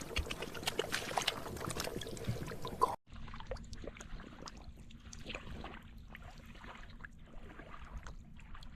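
Water splashing and trickling, with many small sharp splashes and drips. The sound drops and changes abruptly about three seconds in.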